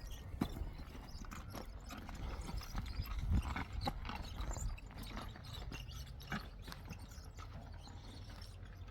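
Irregular light knocks and clatters over a low rumble, a few to the second, loudest about three seconds in.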